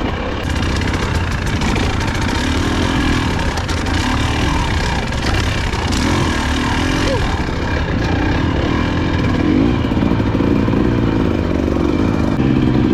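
Off-road motorcycle engine running while being ridden over rough trail, with many short clicks and knocks from the bike during the first several seconds.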